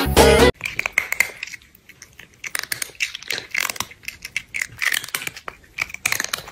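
Crunchy chewing: a rapid, irregular run of crackles and mouth clicks, as of something crisp being eaten. It starts abruptly after a short burst of music is cut off.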